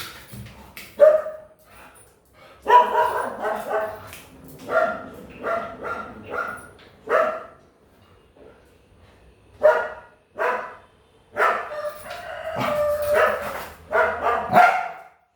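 A dog barking in repeated short volleys, single barks and quick runs of several, with a pause of about two seconds midway. The barking is agitated, angry-sounding.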